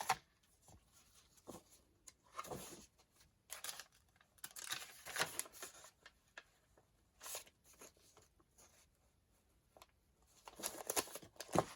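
Sheets of paper being handled on a craft table: scattered soft rustles and light taps, busier near the end.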